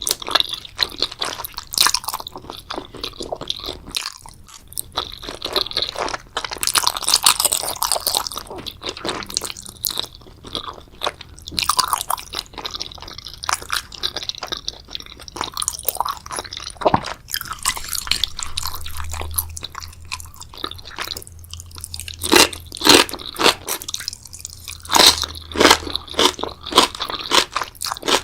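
Close-miked ASMR eating sounds: a person chewing and biting into seafood and noodles, a dense run of quick, crisp clicks. The bites grow louder and more distinct in the last third.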